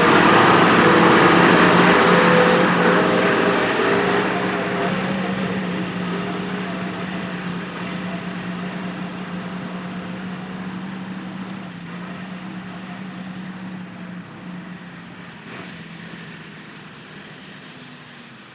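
A compact tractor's engine running at a steady speed, fading gradually as it moves away.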